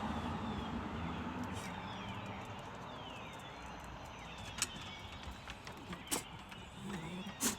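Many songbirds chirping and calling together, short rapid notes overlapping one another, over a low steady rumble that slowly fades. Three sharp clicks stand out in the second half, the last and loudest near the end.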